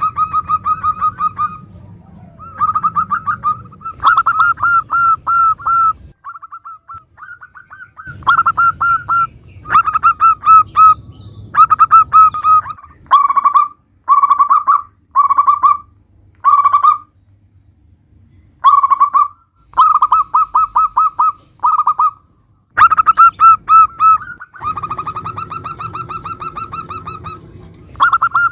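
Zebra doves (perkutut) cooing: bouts of quick staccato notes, each bout lasting a second or two, with short pauses between them. A low background hum is under some bouts and not others.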